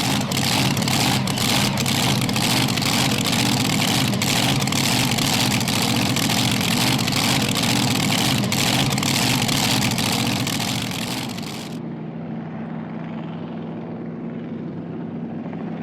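Drag boat racing engine running very loud, with rapid crackling from the exhaust. About twelve seconds in it cuts off abruptly, leaving a quieter, steady low engine drone.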